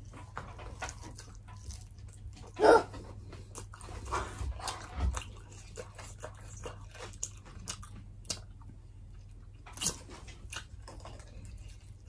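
Close-up mukbang eating sounds: biting into and chewing fried pork ribs, with scattered small crunches and mouth clicks. A short, louder vocal sound comes about two and a half seconds in.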